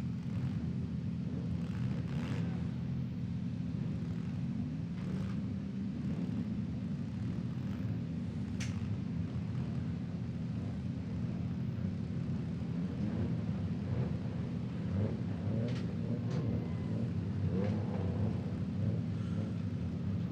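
Demolition derby vehicles' engines running as a steady low rumble, one revving up about four seconds in, with a few sharp bangs scattered through.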